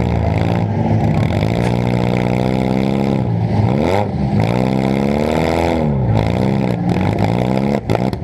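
Demolition derby car's engine, heard from on board, revving up and falling off again and again as the car accelerates and backs off. A few sharp knocks near the end.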